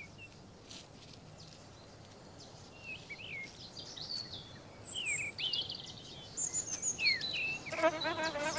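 Small birds chirping and twittering with short whistled calls. Near the end a bee starts buzzing in flight, a steady hum.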